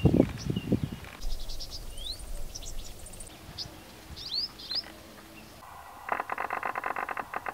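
Outdoor birdsong: many short chirps and rising whistled calls, with a few low thumps in the first second. From about six seconds in, a fast rattling trill repeats evenly until the end.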